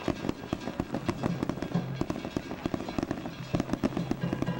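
Fireworks bursting overhead in a dense run of sharp pops and crackles, busiest about three and a half seconds in. Under them, the festival float's hayashi music plays in a steady pulsing rhythm.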